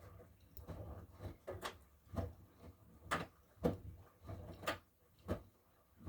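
Miele washing machine running, with irregular soft knocks about once or twice a second over a low rumble, the kind laundry makes as it tumbles in the turning drum.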